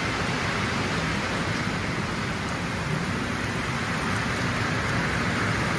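Steady rain pouring down in a storm, an even hiss of rainfall with a low rumble underneath.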